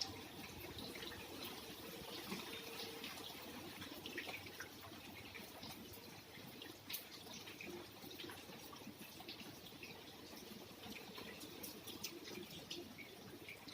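Rain falling lightly, with many scattered drips.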